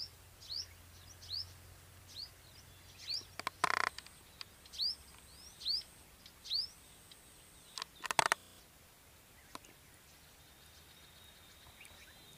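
A songbird calling with short, rising chirps, repeated about once a second, which stop about two-thirds of the way through. Two short, loud, harsh noises break in, a little over a third of the way in and again near two-thirds.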